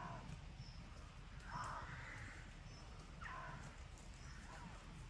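Four harsh, rasping bird calls about a second apart, the longest about a second and a half in. Behind them a faint high thin note repeats about once a second.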